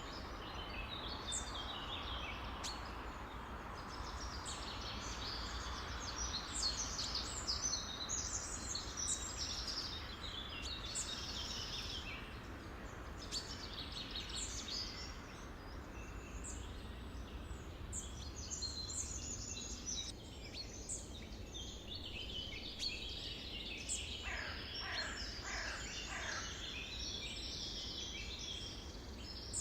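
A chorus of many songbirds chirping and singing at once, dense high chirps overlapping, over a steady low background noise. About three-quarters of the way through, a run of calls sweeps downward in pitch.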